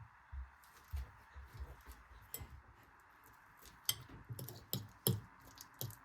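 Kitchen handling sounds: an irregular run of light taps and clicks, some with a soft low thump, coming thicker in the second half, over a steady faint hiss.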